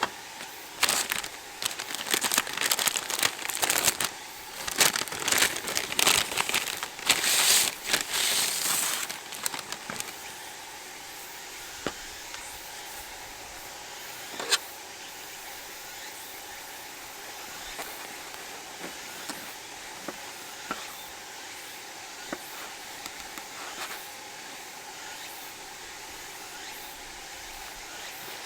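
Loud crumpling and crackling for about the first ten seconds, then a steady hiss with a few sharp pops, like a campfire crackling.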